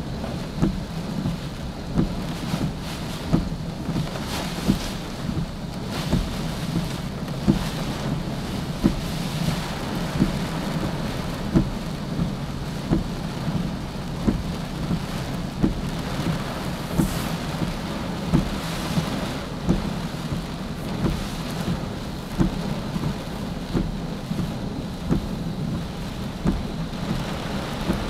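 Steady rushing roar of waterfalls swollen with typhoon floodwater, mixed with heavy rain. A short dull thump repeats about every three-quarters of a second.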